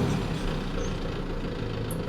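An engine running steadily at idle with a low, even hum.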